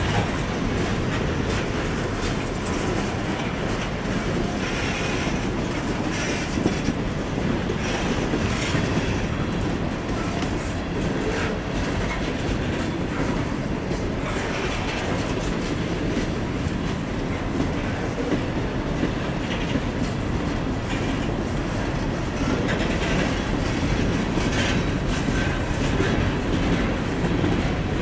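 CSX ore train's hopper cars rolling steadily past, their wheels clacking over the rail joints, with brief high wheel squeals now and then.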